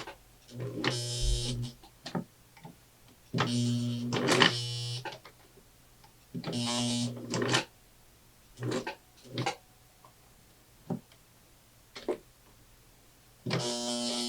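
1968 Singer Model 628 Touch & Sew zig-zag sewing machine stitching denim in stop-and-start runs of about one to one and a half seconds, a steady motor hum with each run, then several shorter pulses near the end.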